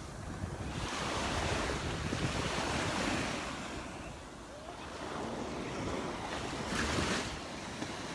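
Surf breaking and washing up the beach, swelling and ebbing, with wind buffeting the microphone; the biggest surge comes a second or so before the end.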